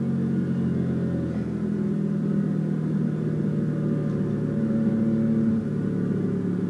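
BMW M5 F90's twin-turbo V8 running steadily at a cruise, heard from inside the cabin.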